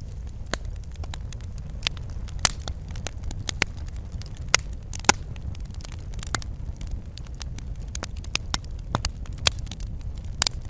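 Wood fire crackling in a fireplace: a low, steady burning rumble with irregular sharp pops and snaps, a few louder ones scattered through.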